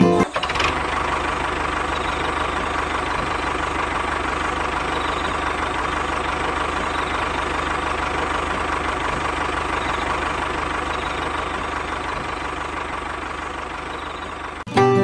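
A small motor running steadily with a fine, rapid buzz, easing off slightly near the end.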